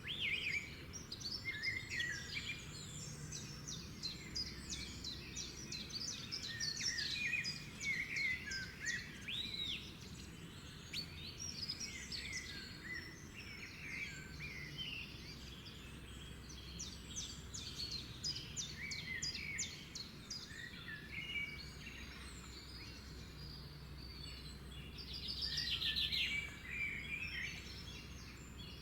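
Several songbirds singing together, a busy chorus of short whistles, chirps and rapid trills, with one fast trill standing out near the end, over a steady low background rumble.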